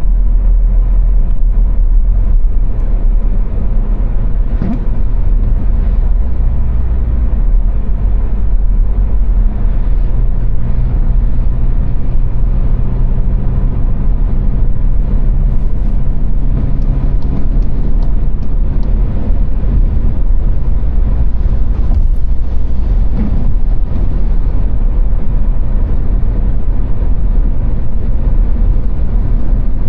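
Car driving at motorway speed: a steady, loud, deep rumble of road and engine noise, with a low engine hum standing out for a while midway.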